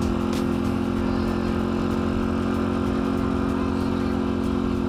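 Dirt bike engine running at a steady speed while being ridden.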